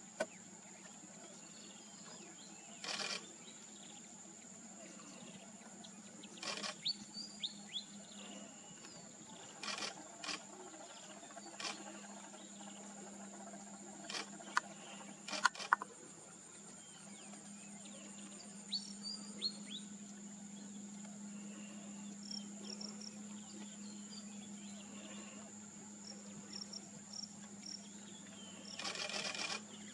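Outdoor wildlife ambience: a steady high-pitched insect drone, with a few short bird chirps and scattered brief noisy bursts.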